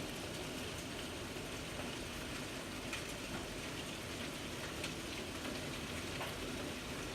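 Rain falling steadily: an even hiss, with a few louder drops ticking now and then.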